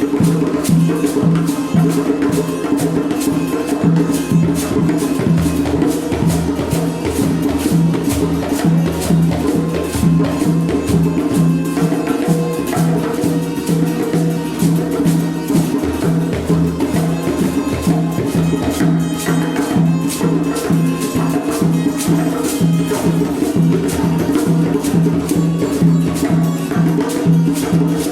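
A children's ensemble of classroom percussion instruments playing a busy, steady rhythm of many taps and shakes together, with a regular low pulse underneath, as their interpretation of rain from a graphic score.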